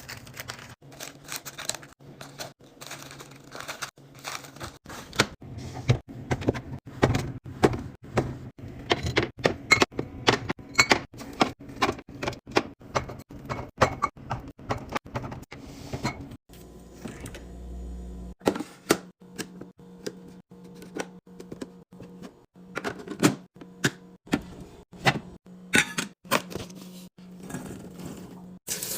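Rapid taps, clacks and thunks of food and drink containers being handled and set down while restocking a fridge, over a low steady hum. About halfway through, the clicking stops briefly, then sparser knocks follow.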